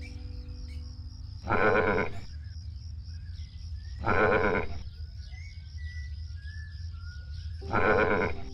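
Livestock bleating three times, each call about half a second long and wavering in pitch, over soft background music with held notes.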